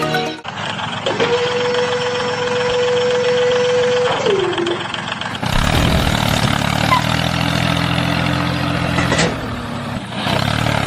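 Engine idling with a steady low drone from about five and a half seconds in, after a noisy mechanical hum carrying a steady high tone that slides down about four seconds in.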